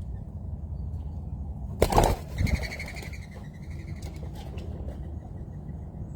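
Birds' wings flapping in a sudden loud flurry about two seconds in, then a brief high wavering bird call, over a steady low rumble.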